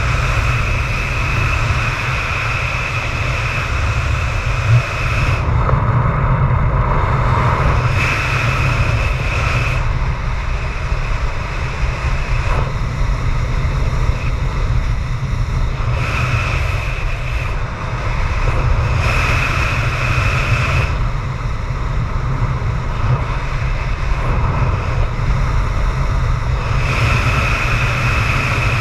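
Strong wind buffeting the microphone in a deep, steady rumble. A high whistling tone comes and goes every few seconds over it.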